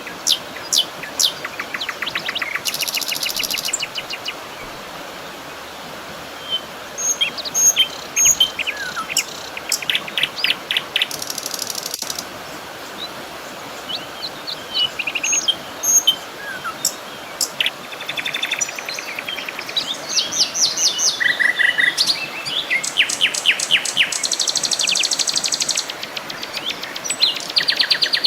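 Several birds singing and calling at once: short chirps, fast trills and rapid runs of repeated notes, over a steady soft hiss of outdoor background.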